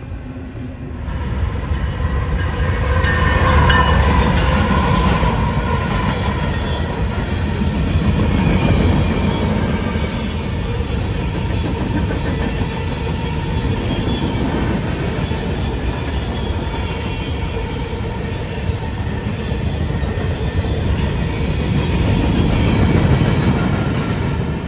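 Freight train's cars rolling past close by: a steady rumble and clatter of steel wheels on the rails, with a thin high wheel squeal over it, strongest a few seconds in.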